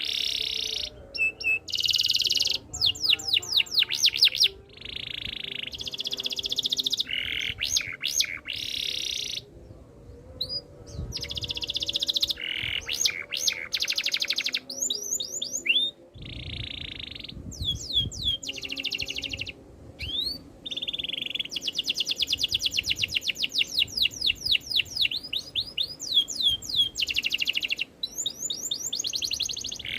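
Domestic canary singing a long, continuous song of fast trills and buzzy rolls. It switches from one rapid repeated phrase to the next every second or two, with only brief breaks.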